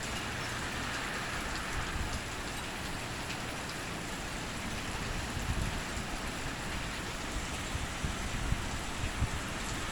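Heavy rain falling steadily in a severe thunderstorm, a constant hiss of rain on surfaces.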